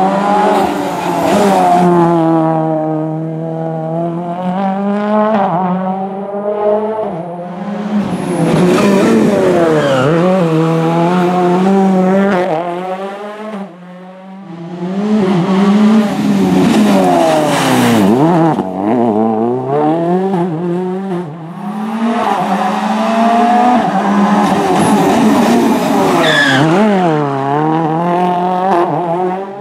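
Ford Fiesta RS WRC rally car's 1.6-litre turbocharged four-cylinder engine revving hard, its pitch climbing and dropping again and again as it accelerates and shifts. There is a brief lull about halfway through.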